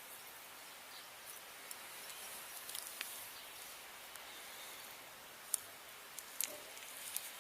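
Faint outdoor background hiss with scattered light, sharp ticks, the loudest about two-thirds of the way through.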